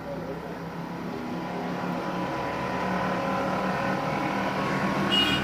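A motor vehicle engine running steadily and gradually growing louder, as if coming closer. A short high-pitched chirp comes near the end.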